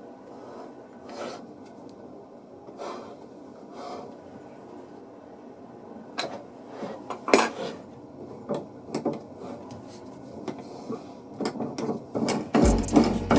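Hand work on wood and metal parts: scattered light clicks and knocks with soft rubbing between them, and one sharper click about seven seconds in. It grows busier near the end, where a low steady hum comes in.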